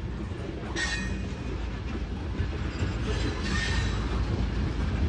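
Freight train of tank cars rolling past close by: a steady rumble of wheels on the rails, with brief high-pitched squeals about a second in and again around three and a half seconds.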